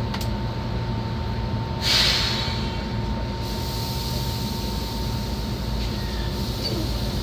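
Inside an Enoden electric train: a steady low hum with a thin whine, and a short hiss of air about two seconds in.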